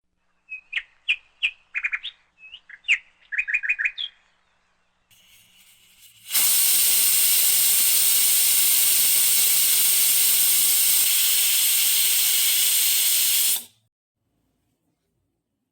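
Small birds chirping in a quick run of short, high chirps for about four seconds. Then a loud, steady hiss starts suddenly, runs for about seven seconds and cuts off abruptly.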